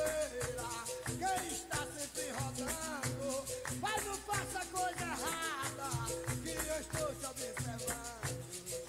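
Capoeira music: berimbau with its caxixi shaker rattling a fast, even rhythm, and a voice singing over it.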